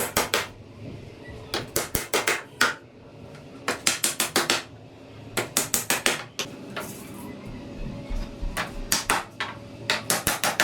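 Hammer tapping quickly on the wooden sticks of a handmade bird cage: several short bursts of four to six rapid sharp strikes, with brief pauses between them.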